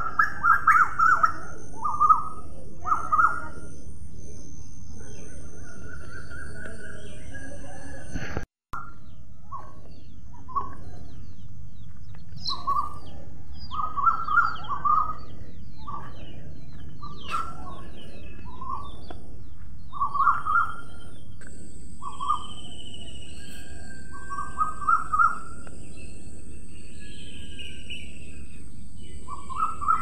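Birds chirping in short, repeated clusters of calls over a steady outdoor background hiss, with a brief dropout about eight and a half seconds in.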